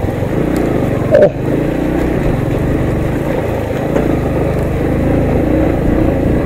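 Yamaha MT-15 single-cylinder motorcycle engine running steadily while riding a rough, unpaved mountain road, with one brief loud knock about a second in.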